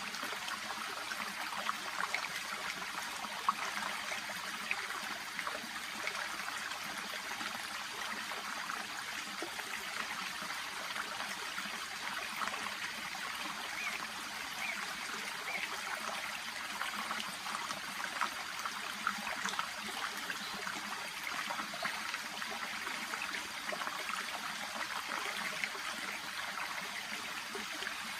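Shallow brook babbling and trickling steadily past water plants, with many small splashes and bubbling sounds in the flow.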